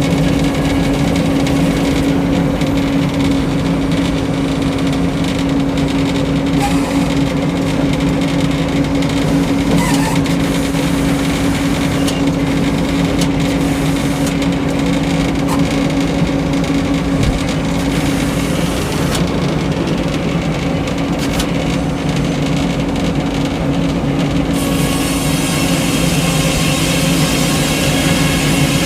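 Frick sawmill and its power unit running steadily with a low, even hum. Near the end a brighter hiss joins in.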